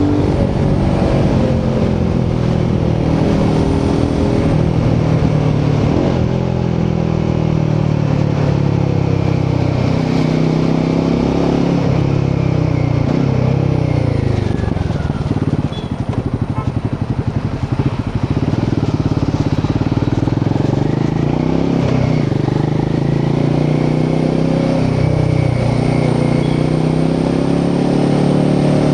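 Royal Enfield Himalayan 450's 452cc single-cylinder Sherpa engine and exhaust under way, its revs rising and falling as the bike rides. About halfway the engine note drops to a quieter, slower pulsing for a couple of seconds, then climbs again.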